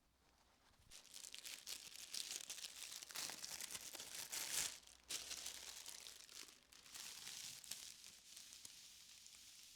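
Close, continuous crinkling and rustling of handled material. It starts about a second in, swells to its loudest mid-way with a brief drop just after, then carries on a little softer.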